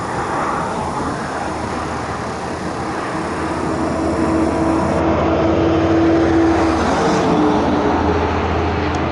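Fast highway traffic passing close by, a vehicle's steady engine hum growing louder from about three seconds in, over wind rumble on the microphone.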